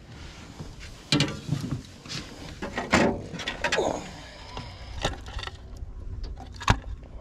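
Handling noise as a caught crappie is laid on a measuring board on a boat: several sharp knocks and clatters with rubbing in between, the loudest a single sharp knock near the end.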